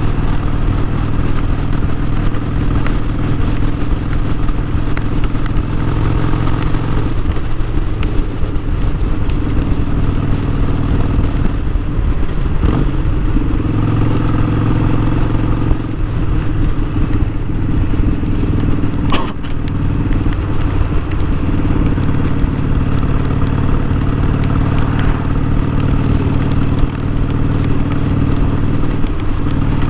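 Harley-Davidson Sportster 1200's V-twin engine running as the bike is ridden, its note dropping and picking up again several times. A single sharp click sounds about two-thirds of the way through.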